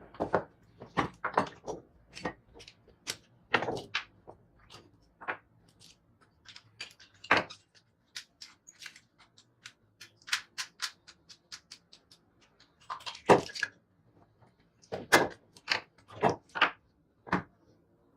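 Irregular sharp knocks and clicks of tools and scooter parts being handled and struck during disassembly. Some are loud single knocks, others short quick clusters, with quiet gaps between.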